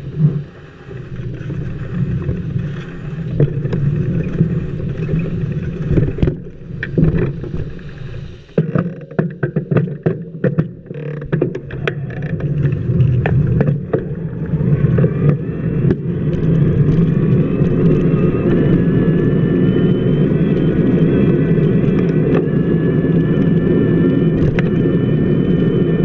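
Bicycle wheel rolling on wet pavement, heard from a camera mounted on the hub. There is a steady rumble with scattered clicks and knocks in the first half. About fifteen seconds in, a whine with several pitches rises and then holds steady.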